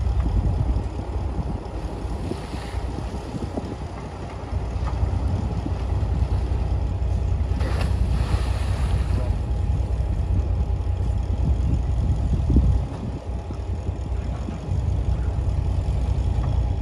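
Heavy diesel earthmoving machinery running with a steady low rumble, with two brief hissing surges, one about two seconds in and one around eight seconds.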